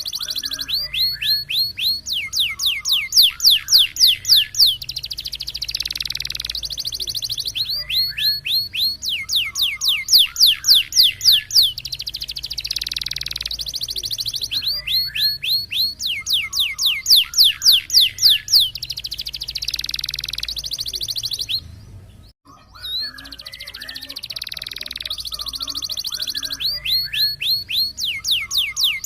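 Domestic canary singing a roll-and-shot (roll tembak) song: runs of rapid, falling whistled notes, several a second, alternating with long buzzing rolls. The song breaks off briefly about two-thirds of the way through, then resumes.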